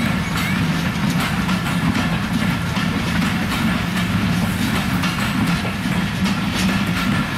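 Passenger train coaches running past, a steady rumble of steel wheels on rail with repeated clacking as the wheels cross rail joints.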